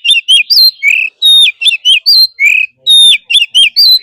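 Oriental magpie-robin singing loudly in its wild-type song, repeating one phrase about every second and a half: a long downslurred whistle followed by a run of quick short notes and a lower note. A song of this kind is used to stimulate caged magpie-robins to sing.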